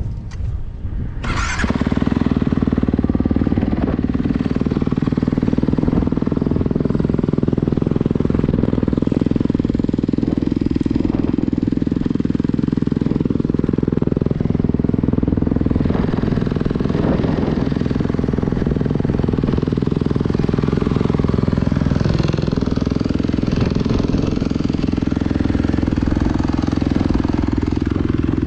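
Dirt bike engine catching about a second and a half in, then running steadily, its note dipping briefly a couple of times.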